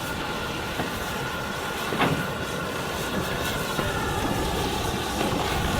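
A train on the move, a steady running noise that slowly grows louder, with a sharp click about two seconds in.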